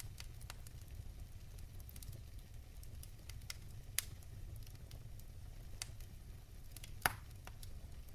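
Fire crackling in a fireplace: scattered sharp pops over a steady low rumble, the two loudest pops about four and seven seconds in.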